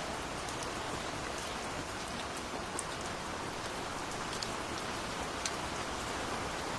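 Steady rain falling, an even hiss with individual drops ticking sharply at irregular moments.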